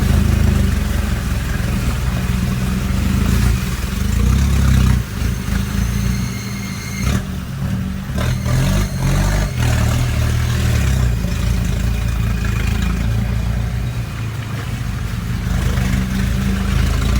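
Troller 3.0's four-cylinder turbodiesel engine running as the 4x4 is driven, its revs rising and falling with the load, with some rattling over the drone.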